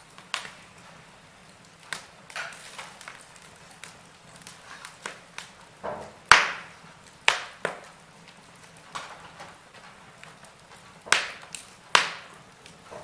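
Wood fire in a fireplace crackling, with irregular sharp pops over a faint steady hiss; the loudest pops come about six seconds in and again near the end.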